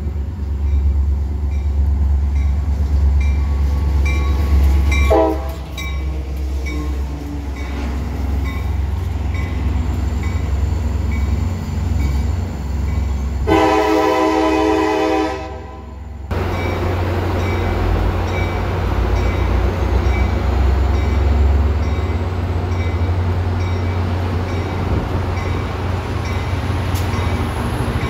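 Arriving MP36 diesel commuter locomotive and its passenger cars: a steady low engine rumble with a short horn toot about five seconds in and a loud horn blast of nearly three seconds about halfway through. A bell dings in a steady rhythm throughout.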